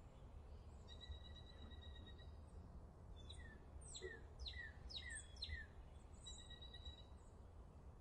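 Quiet outdoor ambience with a steady low rumble, over which a bird calls: a thin held whistle near the start and again near the end, and in the middle a run of about six quick chirps, each sweeping down in pitch.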